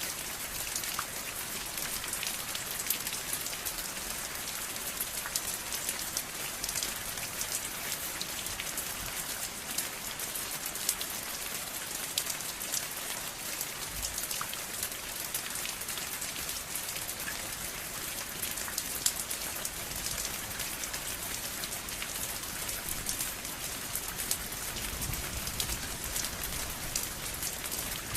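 Steady rain falling, an even hiss of water full of many small, sharp drop ticks.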